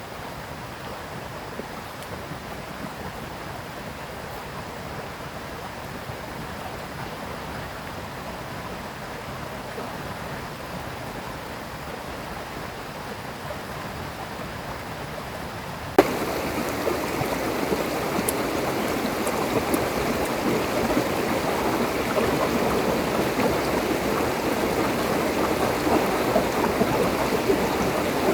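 River water flowing, a steady rushing noise. About halfway through it suddenly becomes louder and brighter, with a click at the change.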